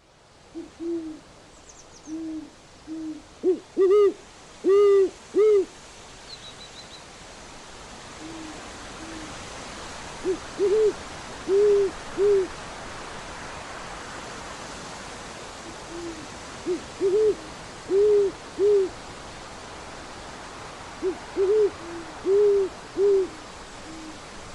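An owl hooting in four phrases of several low hoots each. The hoots grow louder through each phrase, over a steady hiss that swells slightly.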